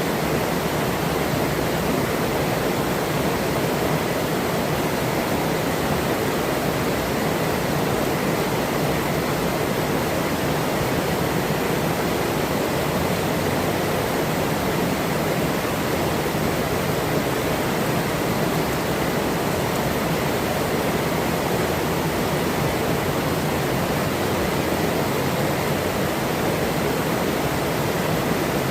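Forest river flowing over rocks: a steady, unbroken rush of running water.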